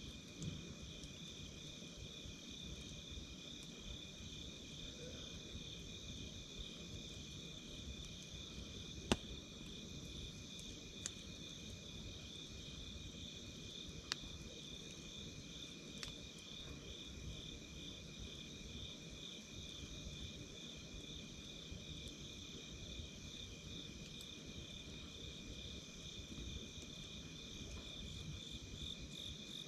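Night insects, crickets, chirping steadily in a fast pulsing trill. Another steady high insect buzz runs beneath it. A wood campfire gives a few sharp crackling pops in the middle of the stretch.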